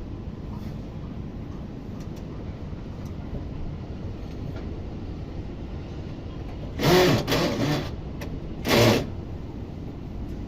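Air conditioner unit running with a steady hum. About seven seconds in come two short, louder sounds with a wavering pitch, the second about a second after the first.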